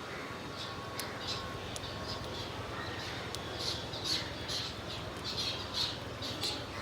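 Small birds chirping in quick, short, high notes, sparse at first and busier over the second half, over a steady low background hum.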